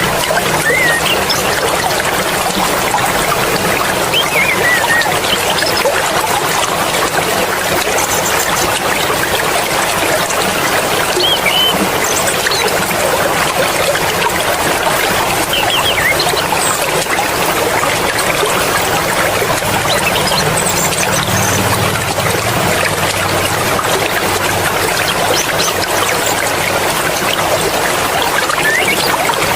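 Mountain stream flowing steadily, a continuous rushing and trickling of water with small bubbling chirps in it.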